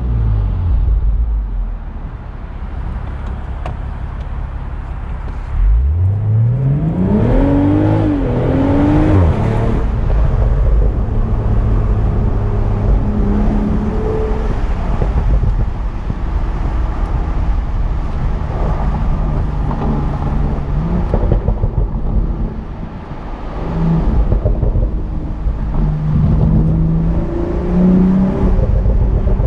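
BMW Z4 M40i's turbocharged 3.0-litre inline-six accelerating hard: the engine note climbs steeply about six seconds in, dips briefly with an upshift, climbs again and then drops off. It then runs at a steadier cruise.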